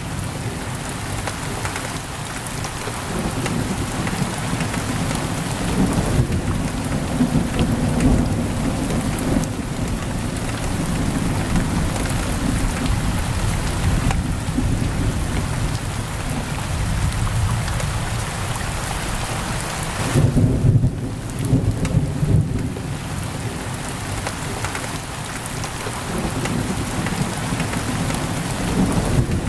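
Heavy rain pouring against a window, a steady hiss. Beneath it runs a low rumble that swells a few times, most strongly about twenty seconds in.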